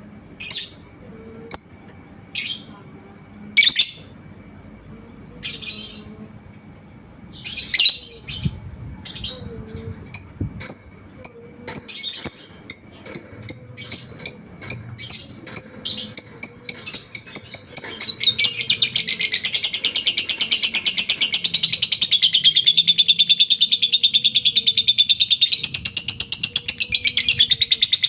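Lovebird calling. Sharp separate chirps come faster and faster, then about two-thirds in they run into one long, unbroken rapid chatter: the 'ngekek panjang' (long ngekek) trill.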